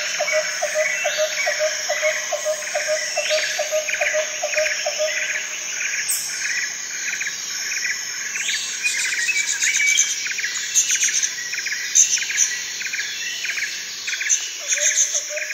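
Nature ambience recording of many birds chirping and calling over a chorus of insects. A lower call repeats about two to three times a second at the start and comes back near the end.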